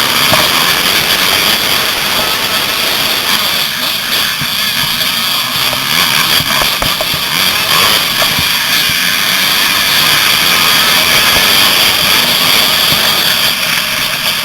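Two-stroke 85cc motocross bike engine running hard under race load, a loud steady rush of noise with no letting up.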